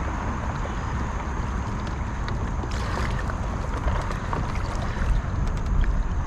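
Fast river current rushing around a kayak, with wind rumbling on the microphone and a few light knocks around the middle.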